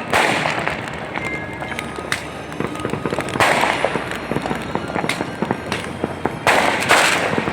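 Fireworks going off: a dense crackle of many small pops, with a louder burst at the start, another about three and a half seconds in and a third near the end.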